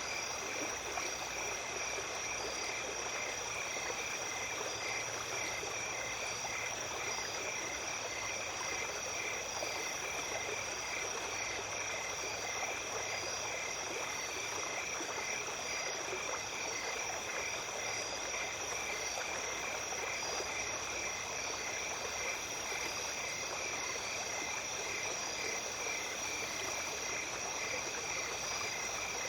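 Small stream running steadily, under a chorus of night insects: a constant high shrill and a fast, evenly pulsing trill.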